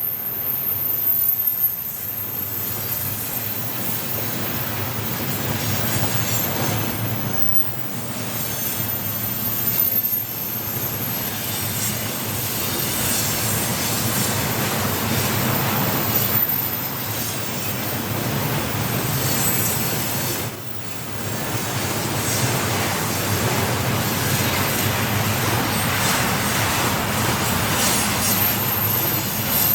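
Freight train wagons rolling past steadily, with the wheels squealing faintly on the rails.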